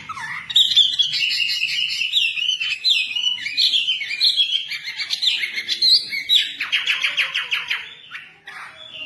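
Songbird singing a fast, varied song of quick whistled chirps, ending in a rapid trill of repeated notes.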